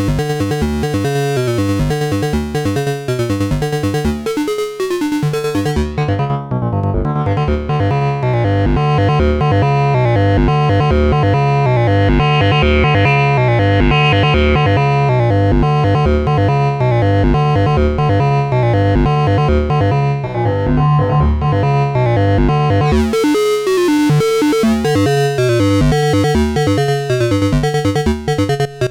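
Analog synthesizers, a Behringer Neutron and a Donner B1 bass synth, playing a repeating sequenced pattern. The sound turns dark and muffled about six seconds in, as the filter closes, and opens back up to bright near the end.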